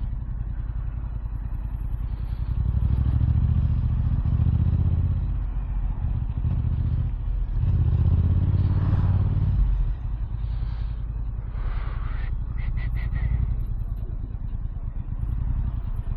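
Yamaha R7's CP2 parallel-twin engine through an Akrapovic exhaust, riding in traffic and swelling twice as it accelerates, then settling. A short run of quick clicks sounds about twelve seconds in.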